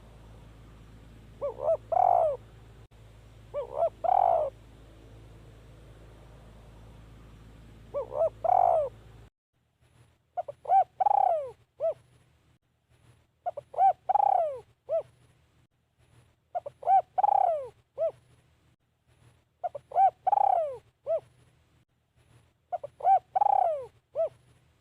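Spotted dove cooing: a short phrase of a few quick notes ending in a longer falling coo, repeated eight times, every three seconds or so toward the end. A steady background hiss behind the first calls stops abruptly about nine seconds in.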